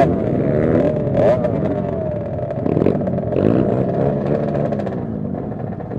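Several 50cc two-stroke minibike engines racing, their overlapping pitches rising and falling as the riders rev and shift, fading slightly near the end.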